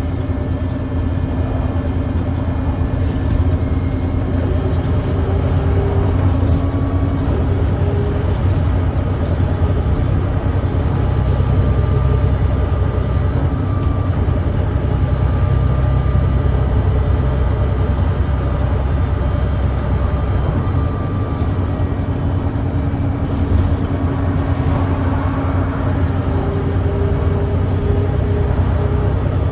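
Volvo B9TL double-decker bus's Volvo D9B 9.3-litre diesel engine running steadily with a heavy low rumble; the bus has an exhaust leak.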